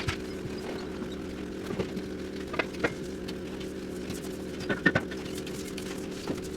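Steady machine hum with scattered sharp knocks and clanks of demolition work on a prefab cold-storage room. The loudest is a pair of knocks about five seconds in.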